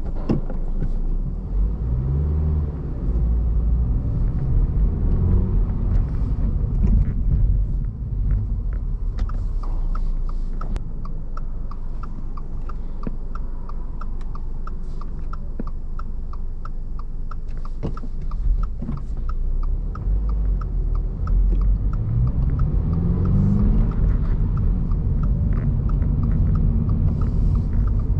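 Inside the cabin of a 2023 Subaru BRZ: the 2.4-litre flat-four rumbles and its revs climb as the car pulls away, then it idles at a stop while a steady turn-signal tick runs for about ten seconds, and the revs climb again near the end as the car moves off.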